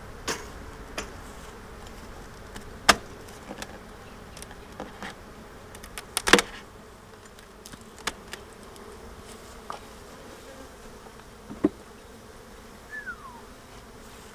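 Honeybees humming steadily around an open hive, with sharp clicks and knocks of hive frames being pried and lifted with a metal frame lifter, three of them much louder than the rest. A short falling whistle sounds near the end.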